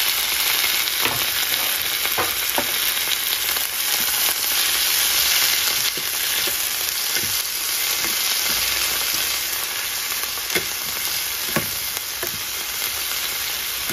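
Chopped tomatoes, onions, garlic and green chillies sizzling in hot oil in a metal frying pan, stirred with a metal slotted spoon that clicks and scrapes against the pan now and then. The sizzle eases a little about halfway through.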